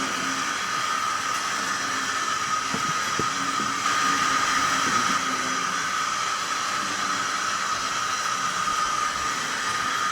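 Model NR class diesel locomotive's DCC sound decoder playing its engine sound through the model's small speaker: a steady drone with a high tone running through it, a little louder for about a second around four seconds in.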